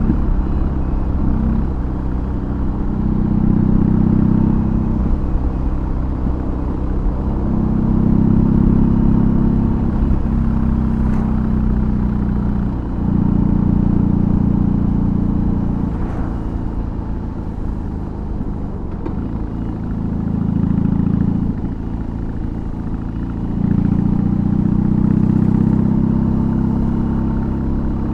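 BMW R18's 1802 cc boxer twin with an aftermarket exhaust running under way, its low note swelling and easing several times as the throttle opens and closes.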